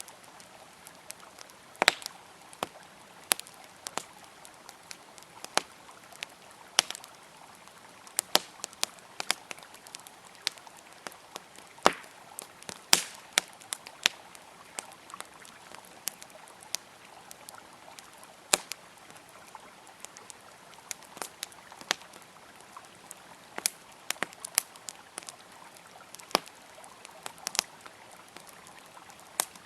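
Wood campfire crackling, with frequent irregular sharp pops and snaps, over the steady rush of a flowing river.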